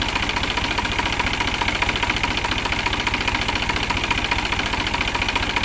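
New Holland 47 hp tractor's diesel engine idling steadily, with a fast, even pulse of firing strokes.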